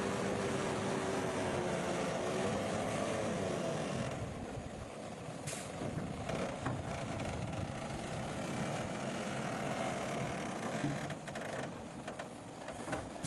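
Engines of heavy road-construction machinery or trucks running, with a pitched engine tone that shifts during the first few seconds. The sound eases a little after about four seconds, with scattered knocks.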